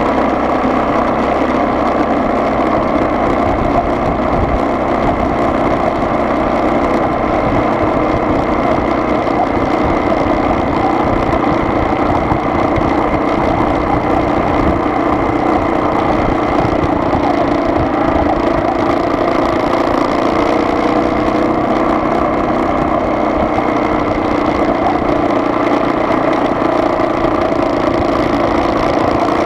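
Steady running noise of a car on the move, the engine's hum and a low rumble holding an even level throughout.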